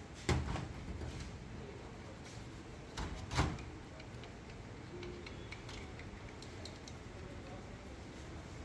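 Workshop handling noises while a throttle body is being cleaned: a sharp knock just after the start, two more knocks about three seconds in, and scattered light clicks of metal parts and tools being handled.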